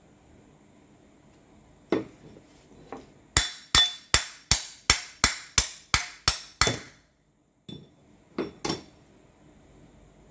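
A hand hammer striking a metal part in a run of about ten sharp, ringing blows at roughly three a second, with a few single blows before and two more near the end.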